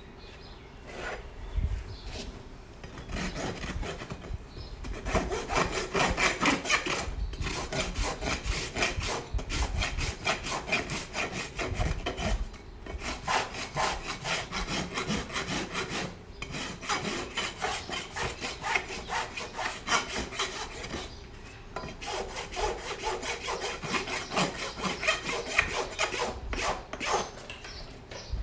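Farrier's rasp worked back and forth across a horse's hoof in steady, repeated strokes, with a few short pauses, leveling the hoof for a shoe.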